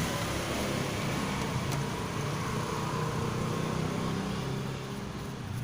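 Steady low mechanical hum with a wavering low drone, like a small engine or motor running, easing off slightly near the end.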